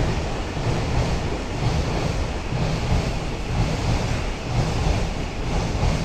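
Steady low rumble of passing trains, a Shinkansen and freight and commuter trains on stacked lines, under a hiss of rain.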